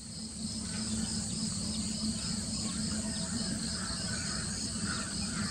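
Steady insect chirring, a fast even pulsing high in pitch, with a few faint bird chirps and a low steady hum underneath.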